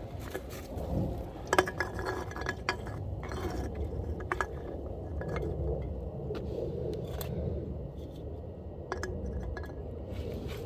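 Sharp clicks and light metallic clinks, the loudest about a second and a half in and more scattered through, from a BB gun and the aluminium drink cans it is shot at. A steady low rumble runs underneath.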